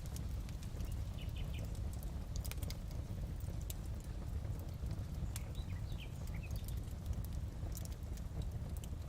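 Wood fire crackling in a fireplace: a steady low rumble with scattered sharp pops and clicks, and a few faint high squeaks.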